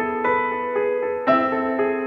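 Background keyboard music with a piano-like tone: a melody over held chords, new notes struck about every quarter second.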